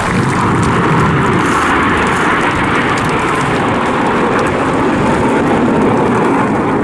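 Jet aircraft noise, a loud, steady rushing sound from Red Arrows BAE Hawk jets flying over.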